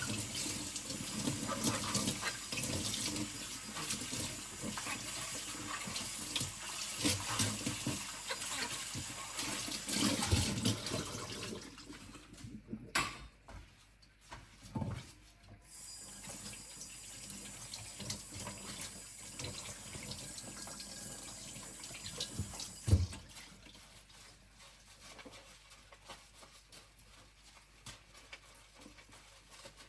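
Kitchen tap running water into a sink as a stainless steel skillet is pre-rinsed; the water stops about twelve seconds in. A few knocks follow, the loudest about 23 seconds in, then only faint handling sounds.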